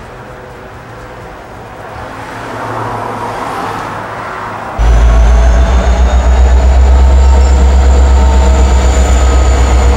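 Steady traffic noise. About five seconds in it gives way abruptly to an approaching diesel-hauled train: a loud, steady low rumble with thin high-pitched tones above it.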